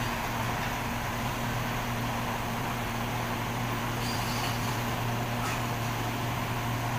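Heavy diesel engine running steadily, an even low hum with no change in speed.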